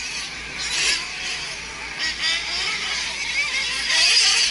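Several nitro RC truck engines whining around the track, their high pitch gliding up and down as the trucks accelerate and brake. The sound swells a little after four seconds in.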